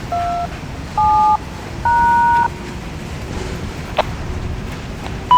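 Three touch-tone (DTMF) dial tones, each a two-note beep about half a second long, sent over a railroad two-way radio, followed by a sharp click about four seconds in, over a steady low rumble.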